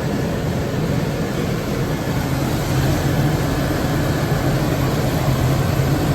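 Large commercial oil-fired boiler burner firing: a steady, unbroken rumble of flame and blower, heaviest in the low range.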